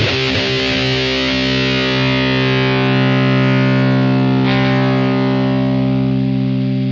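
Epiphone SG Special with P90 pickups played through a Boss ME-80 multi-effects unit: one distorted chord struck and left to ring, sustaining steadily, with a slight change in the ringing notes about four and a half seconds in.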